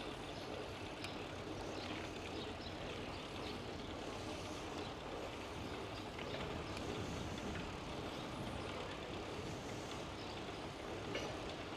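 Steady rushing noise of a bicycle ride, with light scattered clicks.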